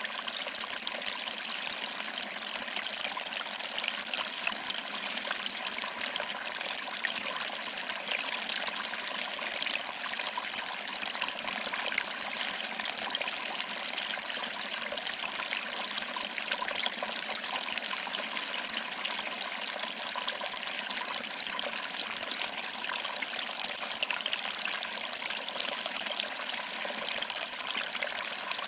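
Small waterfall: water trickling over rocks and splashing into a small pool below, a steady, unbroken splashing rush.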